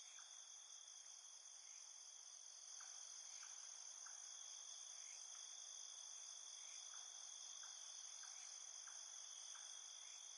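Faint night-time cricket ambience: a steady high-pitched trill, with short chirps now and then.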